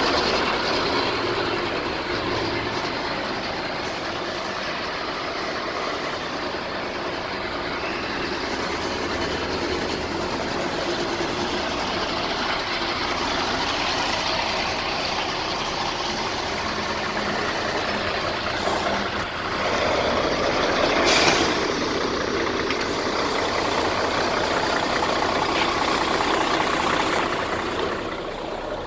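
Mercedes-Benz Actros 2643 tipper truck's diesel engine running steadily, with a short hiss of released air about two-thirds of the way through.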